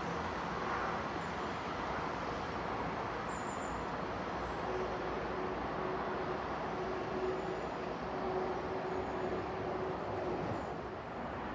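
Diesel multiple unit running away into the distance: a steady rumble with a faint held hum through the middle that fades out near the end.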